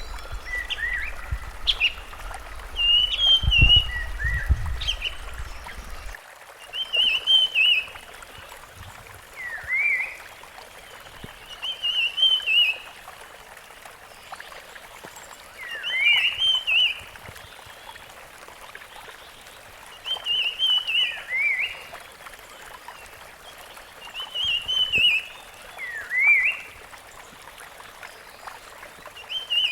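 Rusty-fronted Barwing singing, repeating a short phrase of a rising note and a warbled run about every four seconds, over a steady background hiss. A low rumble in the first six seconds stops abruptly.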